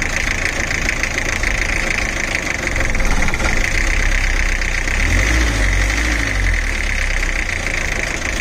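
Rebuilt Nissan R2 engine running steadily, its low rumble swelling for a couple of seconds in the middle.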